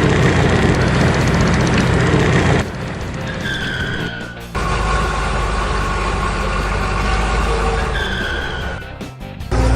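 Steady vehicle-engine rumble laid over background music, in edited segments. The first cuts off about two and a half seconds in, and a second starts about four and a half seconds in and stops shortly before the end.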